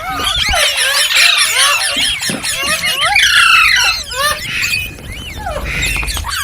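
Several green parrots squawking and chattering at once: a dense run of shrill, overlapping calls that rise and fall in pitch, easing slightly about five seconds in.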